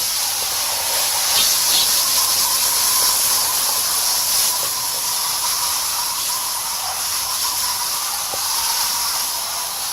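Garden hose spraying water through a dirty air-conditioner coil, a steady hiss rinsing out packed cottonwood.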